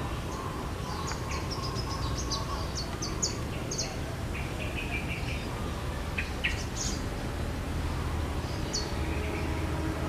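Small birds chirping in short, high notes, a quick run of them in the first few seconds and a few scattered later, over steady low background noise.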